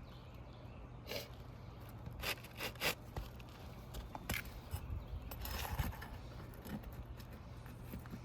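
Pry bar working under roof shingles to pull out the nails: a few sharp clicks and knocks, then a longer scrape a little past the middle.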